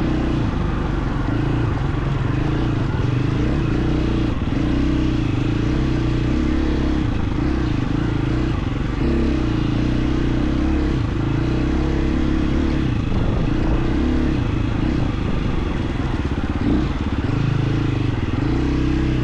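KTM 350 XC-F's single-cylinder four-stroke engine running as the dirt bike is ridden, its note rising and falling with the throttle.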